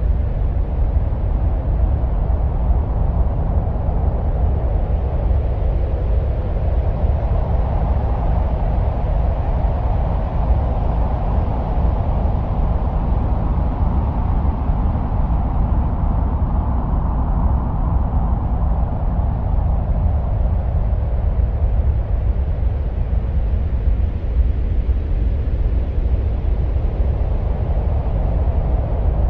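Steady, deep wind-like rumble presented as the sound of Mars, with a hiss that swells and fades over about twenty seconds.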